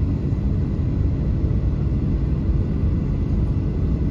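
Steady low rumble of a Boeing 737-800's engines and airflow heard from inside the passenger cabin, unchanging throughout.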